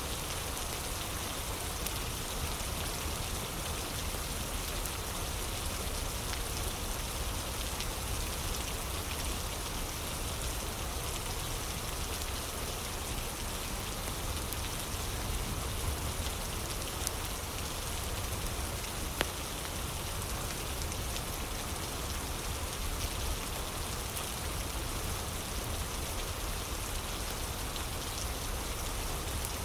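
Steady rain ambience with a few sharp pops of a crackling fire scattered through it.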